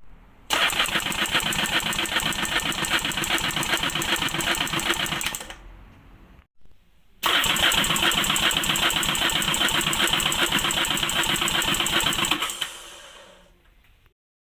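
Sea-Doo RXT-X 300's Rotax 1630 ACE three-cylinder engine turning over in two bursts of about five seconds, with a fast even pulsing. Each burst starts abruptly and dies away.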